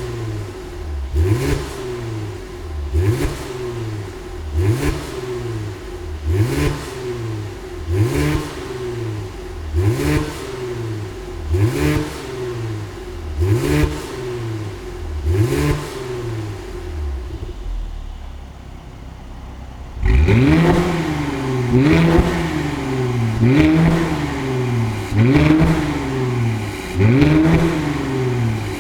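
Mercedes-AMG C43's twin-turbo V6 revved repeatedly while stationary to about 3000 rpm, roughly one blip every 1.7 s, through an ARMYTRIX valved exhaust. At first the valves are closed and the sound is near stock volume. After a short lull about 20 seconds in, the valves are open and each rev is much louder and sportier.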